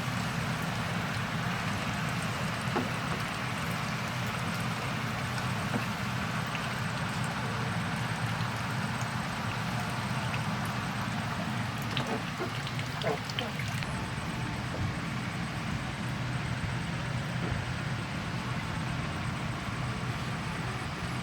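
JCB backhoe loader's diesel engine running steadily at idle, with a constant hiss of noise over it and a few scattered clicks.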